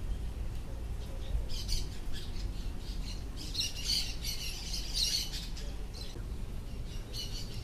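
Birds squawking and chirping outdoors in several bursts, busiest from about three and a half to five seconds in, over a steady low rumble.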